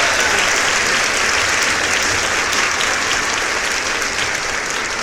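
Audience applauding: dense, steady clapping that slowly fades.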